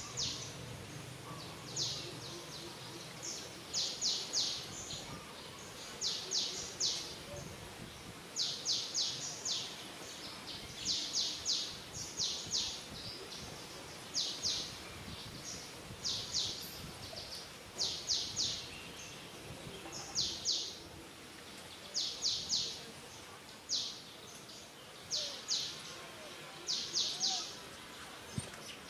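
A bird calling over and over: short groups of two to four quick, high chirps repeated every second or two, over a steady outdoor background hum.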